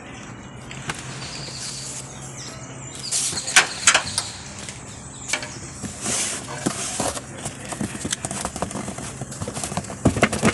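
Cardboard box and its packaging being handled and worked open: irregular knocks, scrapes and rustling, busiest in the middle.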